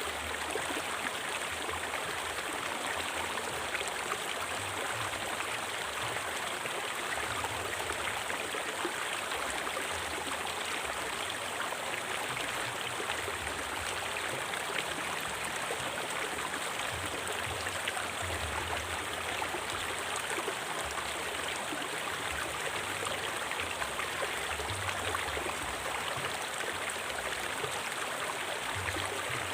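River water flowing steadily over stones, an even rushing sound with no break.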